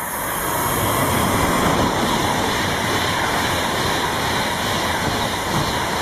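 Virgin Pendolino (Class 390) electric train passing through the station at high speed: a loud, steady rush of wheels on rail and air, building over the first second.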